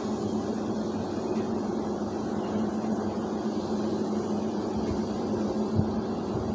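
Steady mechanical hum with a constant low tone under a noisy rush, unchanging throughout.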